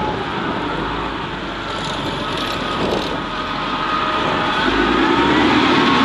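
Road traffic: vehicle engines running and passing on a busy street, with one vehicle getting louder in the last second or so.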